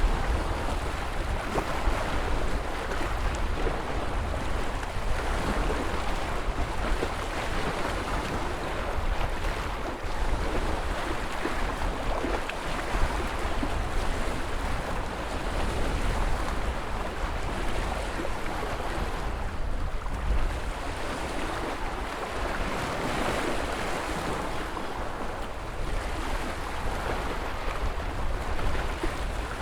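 Ocean surf: a continuous wash of breaking waves over a deep low rumble, swelling and easing every several seconds.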